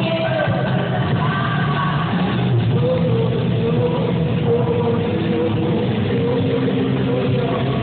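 Live rock band performance: a singer holds a long, wavering vocal line over the full band.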